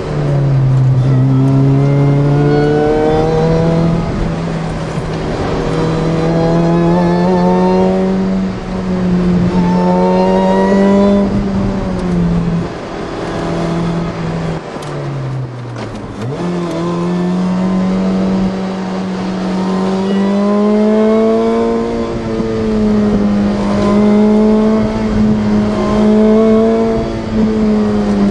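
Engine of a car fitted with a Ronin supercharger at 9.7 psi boost, heard from inside the cabin while driven hard: the revs climb repeatedly and drop back as it pulls through the gears and slows for bends. The engine note dips and quickly rises again about halfway through.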